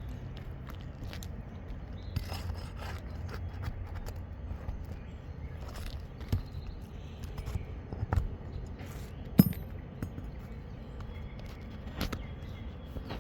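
Scrapes, rubs and scattered knocks of hands and tools working three-tab asphalt roof shingles, with one sharp click about nine seconds in.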